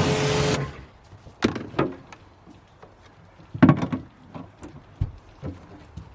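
Pressure washer spraying, its motor hum and the hiss of the spray cutting off about half a second in. A few scattered knocks and clatters follow.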